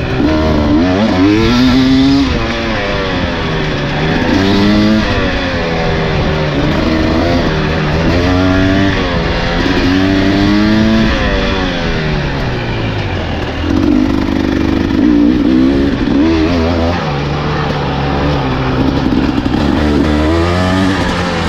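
Husqvarna enduro dirt bike engine under way, its pitch rising and falling over and over as the throttle is opened and rolled off.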